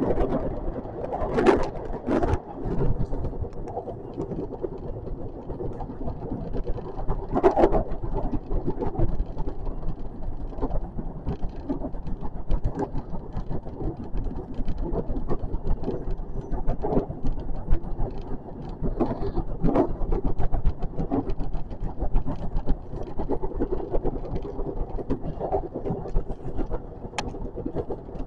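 JR West 521 series electric train running on the line, heard from inside at the front: a steady rumble of wheels on rail with irregular knocks now and then.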